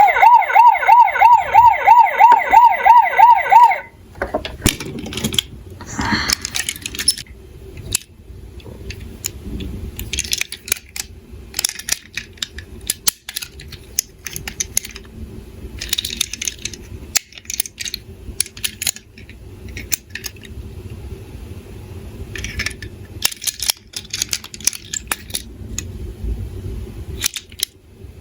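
Toy emergency-vehicle siren yelping, rising and falling about three times a second, then cutting off about four seconds in. After it come scattered clicks and clattering of small diecast toy cars.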